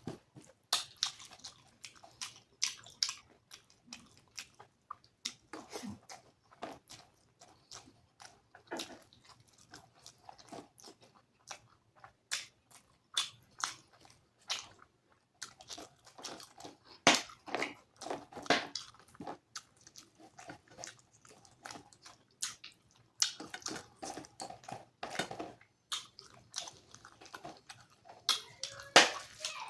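Close-miked chewing and lip-smacking of a person eating rice with dal and curries. It comes as an irregular run of short wet clicks and smacks.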